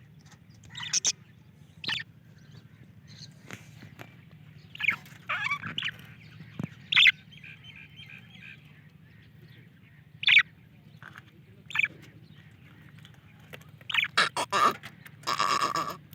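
Small Australian parrots giving short, sharp chirps and squawks at irregular intervals, with a longer harsh burst near the end, over a low steady hum.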